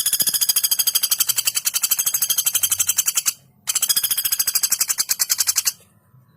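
Female common flameback woodpecker calling: a rapid, evenly spaced rattle of high notes lasting a little over three seconds. It breaks off briefly, then comes a second rattle of about two seconds.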